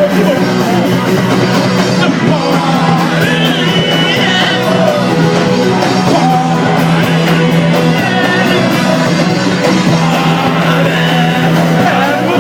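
Live punk rock band playing loud and steady, with electric guitar and singing.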